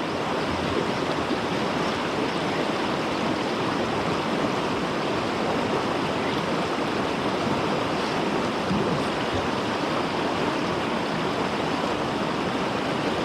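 Steady rush of a river running high and fast after heavy rain.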